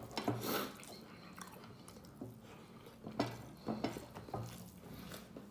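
Person chewing a mouthful of rice, with a few short mouth clicks near the start and again around three to four seconds in.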